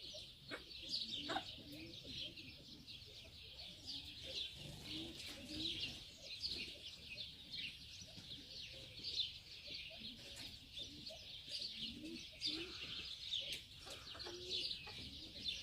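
Birds calling in a continuous chatter of high, quick chirps, with short low calls now and then beneath it.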